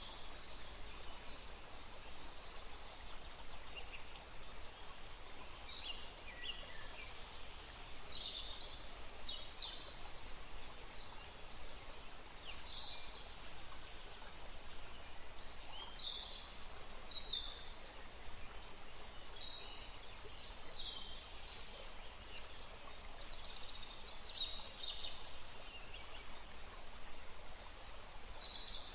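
Songbirds chirping and calling in many short high notes, scattered throughout, over a steady outdoor hiss.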